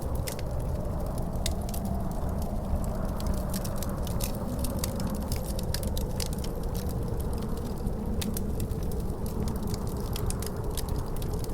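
Wood fire in a fireplace crackling with frequent sharp, irregular pops, over a steady low wind rumble with a wavering howl.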